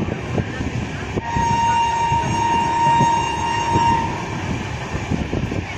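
A train running on the rails, with a steady low rumble and irregular knocks from the wheels, heard from inside the moving train. About a second in, the train horn sounds one steady blast that lasts nearly three seconds.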